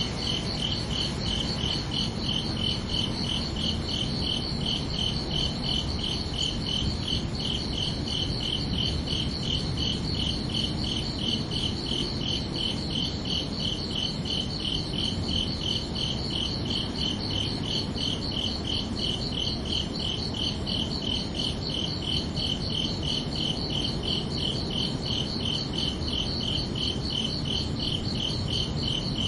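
Crickets chirping in a steady, even pulse that does not let up, over a low background hiss.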